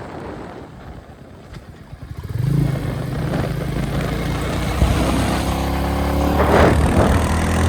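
Royal Enfield Meteor 350's single-cylinder engine and exhaust heard from the bike. It runs quietly for about two seconds, then the exhaust note rises sharply and climbs steadily in pitch as the bike accelerates.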